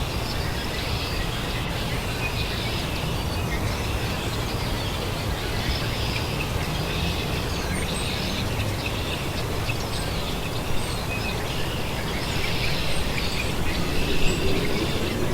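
Birds chirping in scattered short calls over a steady low background rumble.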